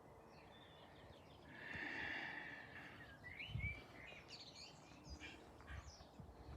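Faint outdoor ambience with birds chirping, and a low thud about three and a half seconds in.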